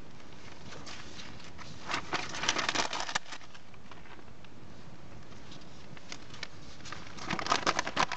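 Bonfire of paper and cardboard crackling, with two spells of quick snapping, about two seconds in and again about seven seconds in.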